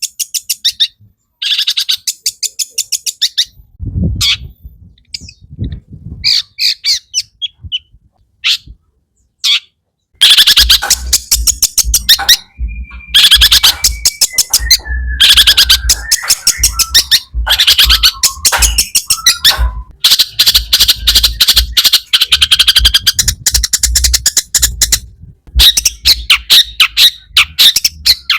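Long-tailed shrike (cendet) singing a fast, harsh, chattering song packed with mimicked notes. It comes in short spurts at first, then runs on almost without a break from about ten seconds in, with a sliding whistle running through the chatter in the middle.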